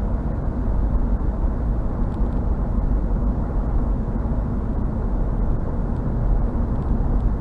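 Steady road noise inside a moving car's cabin: an even low rumble of tyres and engine at cruising speed.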